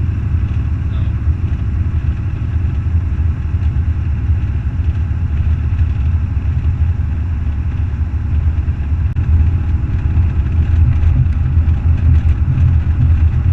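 Semi truck's diesel engine running steadily, a low, continuous rumble.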